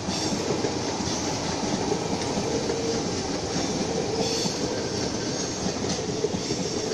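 Two Sydney Trains Tangara electric multiple units passing each other on adjacent tracks: a steady rumble of steel wheels on rail, with brief high-pitched squeals now and then.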